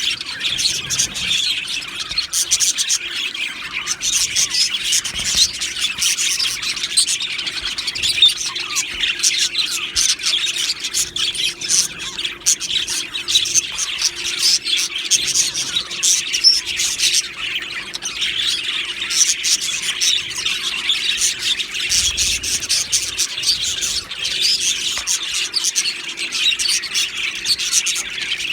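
A colony of budgerigars chirping and chattering together, a dense, continuous flock chorus of many overlapping calls.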